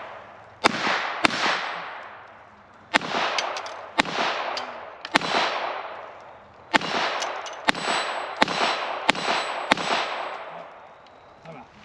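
A 1920s Colt Woodsman .22 target pistol fired about ten times at an uneven pace. Each sharp crack is followed by a long echo that dies away over about a second.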